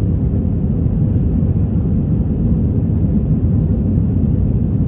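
Steady low rumble of an Airbus A321-200 heard from inside the passenger cabin: engine and airflow noise, unchanging throughout.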